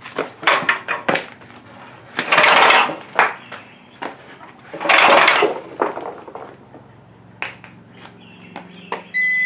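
Gravely tractor engine being cranked over for a first start without catching: clicks and clatter, then two loud whooshing bursts about two and a half seconds apart as it spits from the exhaust. A short beep sounds near the end.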